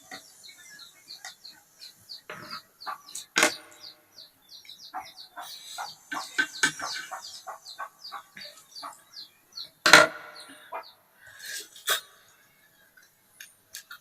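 A bird chirping in a fast run of short, high, falling notes, about four a second, that stops about nine seconds in. Scattered sharp clicks and knocks sound throughout, the loudest about ten seconds in.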